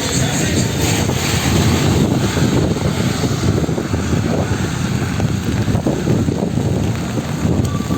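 Wind buffeting the microphone, a loud, fluttering rumble over a steady hiss.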